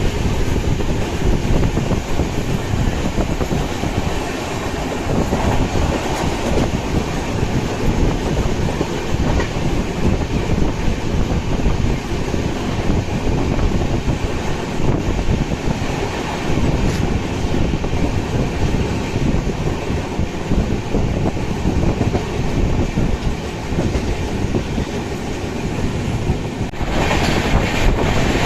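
Coromandel Superfast Express passenger train running at speed: steady rumbling of the wheels on the rails and the coaches rattling. About 27 seconds in, a brighter hiss comes in.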